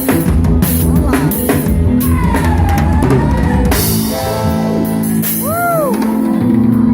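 A band playing with a drum kit: drum and cymbal hits over held chords. About halfway through, the drums stop and held notes continue, with one line bending up and down in pitch.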